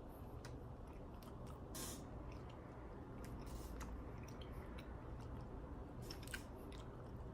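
A person chewing a soft sweet close to the microphone, with a few short clicks and crackles over a low room hum.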